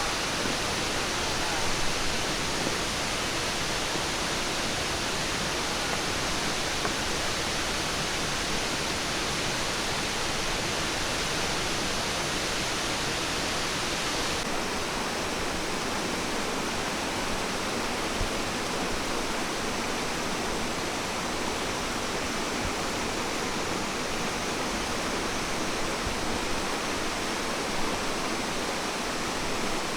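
Steady rush of flowing, falling water, an even noise with no breaks; its high end drops a little about halfway through.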